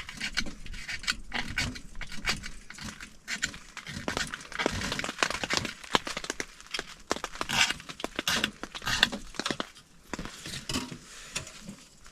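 Repeated short scraping strokes as shavings are scraped off a fire-starting card to make tinder, with small clicks in between; the strokes come thickest in the middle.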